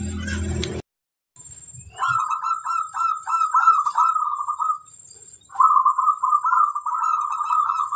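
Zebra dove (perkutut) singing its cooing song: two runs of rapid, rhythmic coos, each about two seconds long, with a short pause between them. A faint high steady tone runs underneath, and a low hum in the first second stops abruptly.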